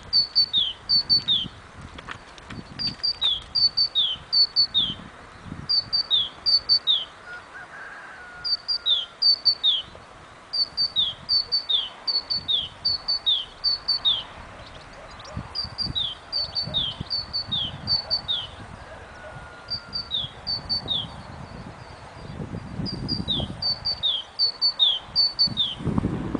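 A songbird singing in short bursts of three to six quick high notes. Each note is a brief sharp chip followed by a falling slur, and the bursts repeat every second or two.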